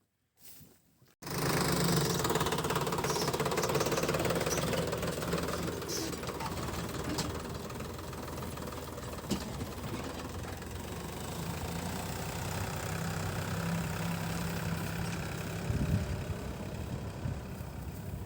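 A tractor's diesel engine running steadily, cutting in abruptly about a second in after near silence.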